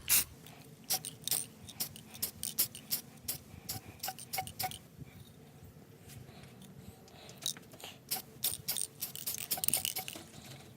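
Irregular light metallic clicks and clinks, sparse at first and thickening into a quick cluster near the end.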